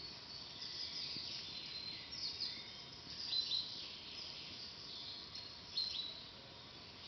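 Forest songbirds chirping in short, quick calls, several of them high and sharp, over a steady background hiss.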